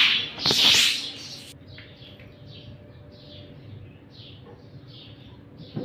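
Loud hiss of water from a garden hose in the first second. After an abrupt cut, a small bird chirps over and over, short chirps about two a second, over a faint steady hum.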